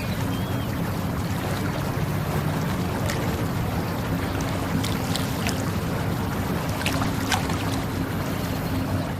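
Steady low motor hum under a constant rushing noise, with a few faint clicks, typical of a motorboat under way.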